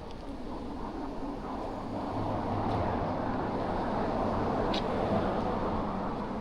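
Road traffic: a motor vehicle's engine hum and tyre noise swell over the first couple of seconds and then hold steady, with a couple of faint ticks.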